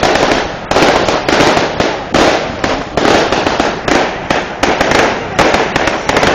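Aerial firework shells bursting in rapid succession: loud bangs several times a second, each trailing off in crackle, overlapping into a continuous barrage.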